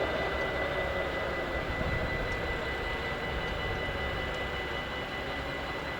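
Steady ringing of a Dutch level-crossing warning bell, heard as even high tones, over the fading rumble of a train that has just passed.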